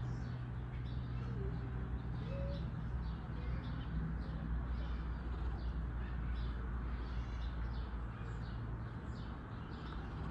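Birds chirping again and again over a steady low hum.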